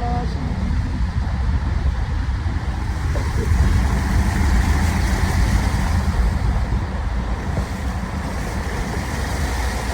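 Steady road-vehicle noise: a continuous low engine rumble mixed with road and wind noise while moving along.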